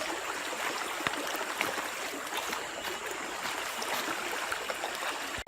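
Stream water running steadily, with a few small clicks, until the sound stops suddenly near the end.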